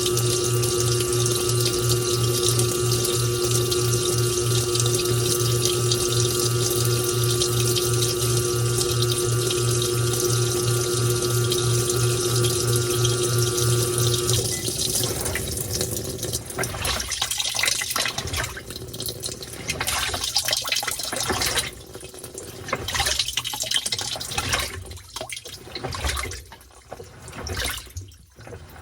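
Washing machine taking in bath water: a steady rush of water with a pulsing hum from the pump, which stops about halfway through. After that the water trickles and splashes in uneven spurts that die down.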